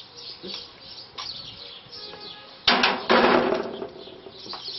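Faint bird chirps, then about three seconds in a sharp knock followed by a second-long burst of noise.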